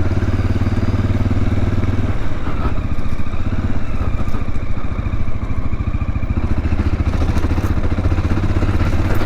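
Dual-sport motorcycle engine running under way, a steady rapid firing pulse. The engine note eases off about two seconds in and builds again near six and a half seconds.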